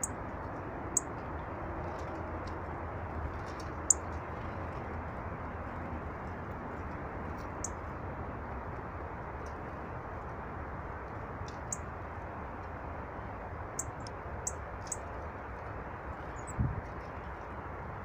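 Small birds giving short, thin, high calls every second or two over a steady rushing background. A low thump near the end as a blue tit lands on the wooden feeder tray.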